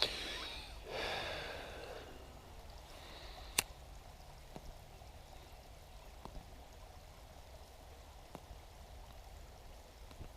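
A person breathing out audibly at the start, then a single sharp click about three and a half seconds in and a few faint ticks over a low steady hiss.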